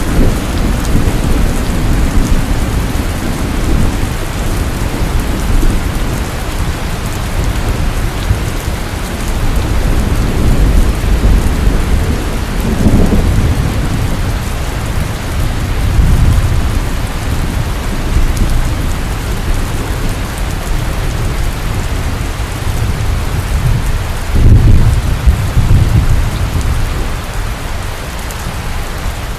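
Heavy rain falling steadily, with deep rolls of thunder that swell and fade several times; the loudest comes a little past the middle.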